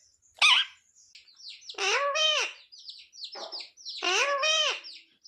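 Pet green parrot chirping in quick short high notes, with two longer drawn-out calls about two and four seconds in.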